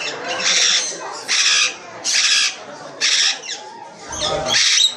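A parrot screeching over and over: about five harsh, loud calls at a steady pace of a little under one a second.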